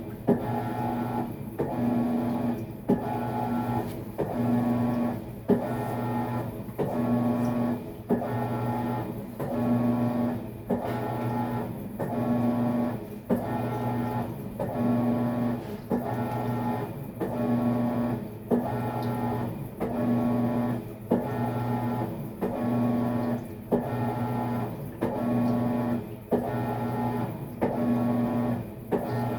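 Maytag MVWX655DW1 top-load washer running its tub-clean cycle: the drive motor hums in back-and-forth wash strokes, swelling and dropping about once a second, with a stronger stroke about every two seconds and a short click at many of the reversals.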